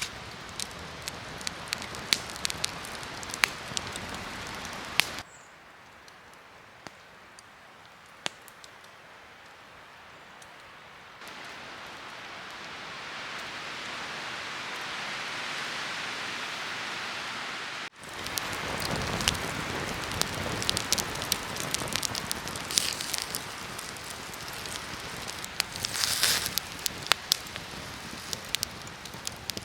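Wood campfire crackling and popping with many sharp snaps. It drops abruptly to a quieter stretch with only a few pops about five seconds in, then a smooth, slowly swelling hiss takes over, and the dense crackling returns abruptly partway through.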